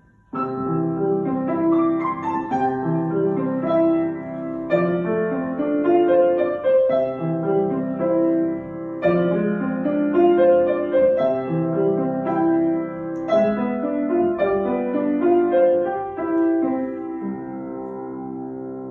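Acoustic piano played by a child: a short piece with a steady run of separate notes, ending on a held chord that rings and fades near the end.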